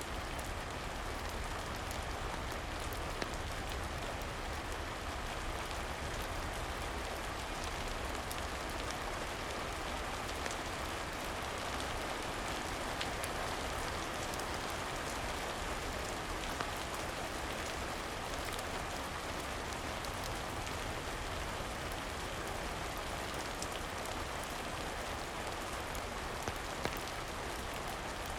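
Steady rain falling, an even wash of noise with a low rumble beneath and occasional faint clicks.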